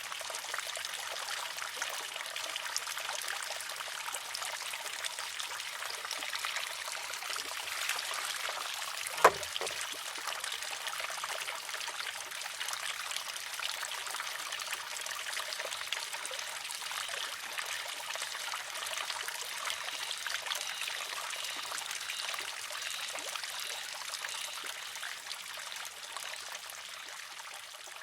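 Water trickling steadily into a wooden shishi-odoshi. About nine seconds in, one sharp wooden clack as the water-filled arm tips over and strikes the stone; the trickle fades down near the end.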